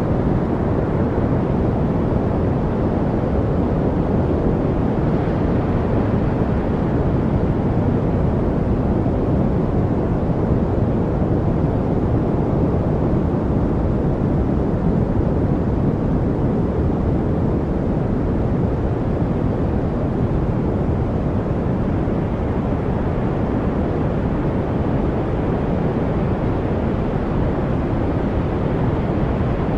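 Steady white-noise-style masking hiss, even and unchanging, with most of its weight in the low end, so it sounds deep and rumbly rather than bright.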